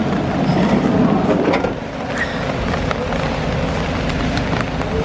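Steady rain falling outdoors, a continuous wash of noise with scattered sharp ticks of drops.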